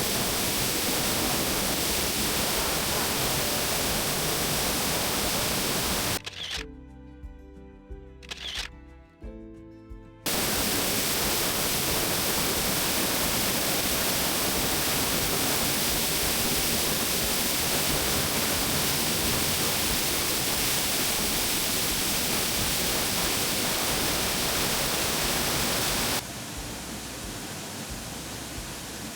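Dry Falls waterfall roaring, a steady rush of falling water. About six seconds in it cuts out for a few seconds to a quieter passage with pitched tones, then returns, and it drops to a softer rush near the end.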